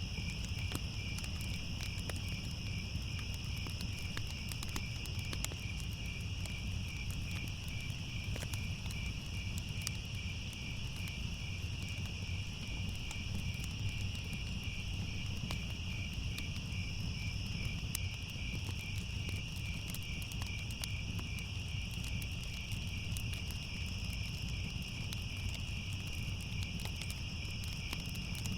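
Crickets chirping in a steady, fast-pulsing chorus over a low rumble, with scattered sharp crackles of a wood fire.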